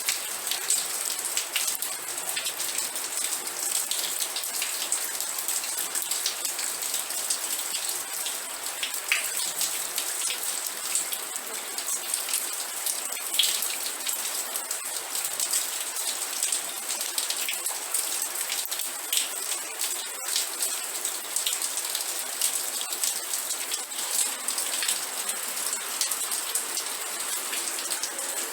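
Steady rain, with many individual drops pattering on a surface.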